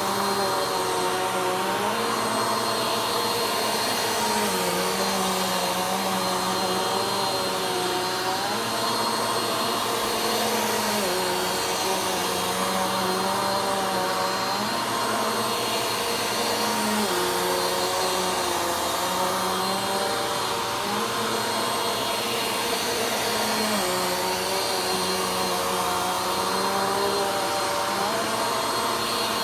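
Vacuum cleaner running steadily, its motor pitch dipping and rising again every second or two as it is pushed back and forth over the floor.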